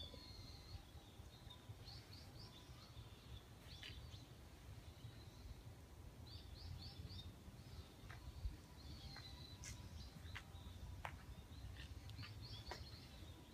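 Small birds chirping at intervals in short quick runs of high notes, faint over a steady low rumble of outdoor background noise. A single soft knock a little past halfway.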